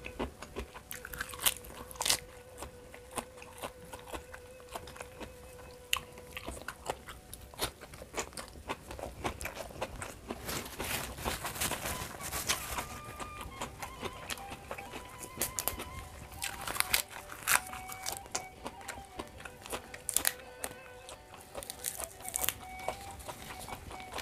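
A person biting and chewing crisp food close to the microphone, with many sharp crunches throughout. Faint background music with held notes plays underneath.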